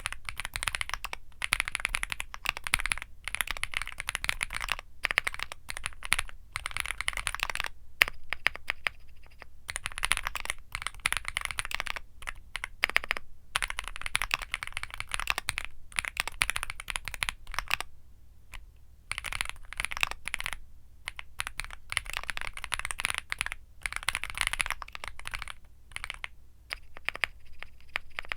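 Typing on a Womier SK75 mechanical keyboard with Womier Mint Blizzard switches: fast runs of key clacks with short pauses between bursts.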